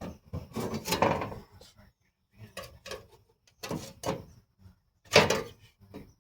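A series of clattering knocks and scrapes of hard objects being handled and moved about, in several bursts, the loudest about five seconds in.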